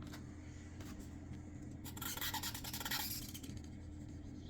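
Pen writing on a board: faint scratchy pen strokes, busiest around the middle.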